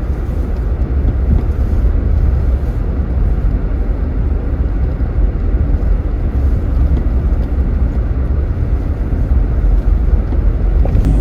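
Vehicle on the move: a steady low rumble with no clear engine note.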